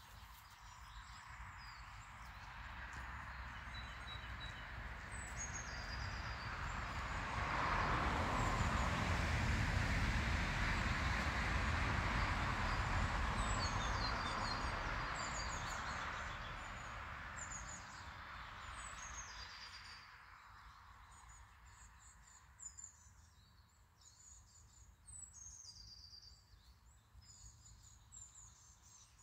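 Songbirds chirping in short high calls, over a broad rushing noise that builds for several seconds, is loudest about ten seconds in, and fades away by about twenty seconds.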